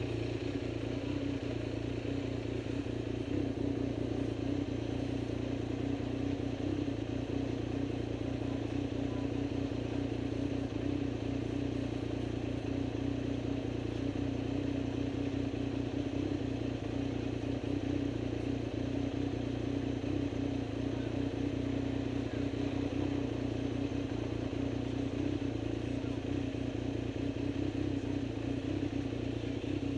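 A vehicle engine running steadily at an even idle.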